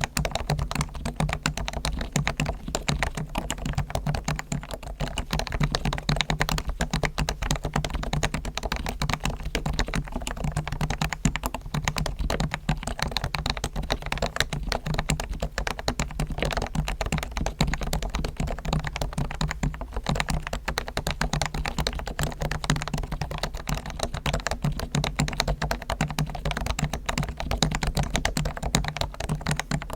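Fast, continuous typing on a Realforce R1 Topre electrostatic capacitive keyboard with lubed sliders, springs and stabilizers and added foam dampening, giving soft, deep keystrokes.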